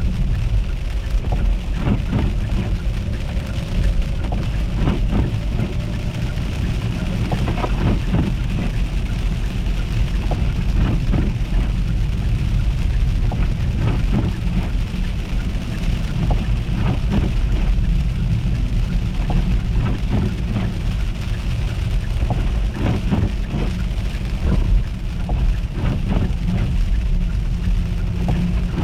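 A car driving on an icy road: a steady low rumble of road and engine noise with scattered crackling ticks throughout.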